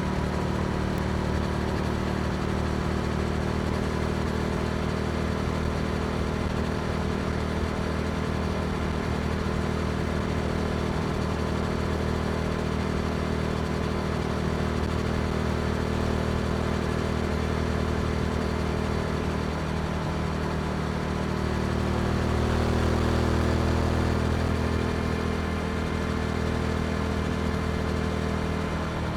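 Yamaha R7's parallel-twin engine running through an Akrapovic exhaust, cruising at steady revs with rushing wind noise. It grows a little louder about three-quarters of the way through as the throttle opens, then settles back.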